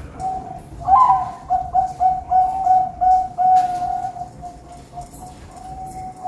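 Zebra doves (perkutut) cooing. About a second in, a loud run of quick, evenly spaced coos starts and goes on for about two and a half seconds, over steadier cooing from other doves.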